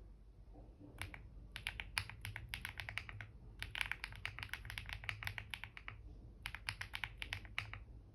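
Typing on a computer keyboard: quick runs of key clicks in three bursts with short pauses between them.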